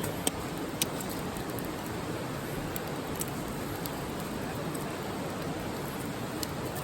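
Wood campfire crackling, with a couple of sharp pops about a third of a second and just under a second in, over a steady rushing background noise.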